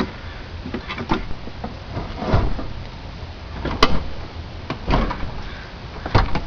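Irregular knocks and clunks, one every second or so, with a sharp click about four seconds in, as a VW engine on a floor jack is worked into place.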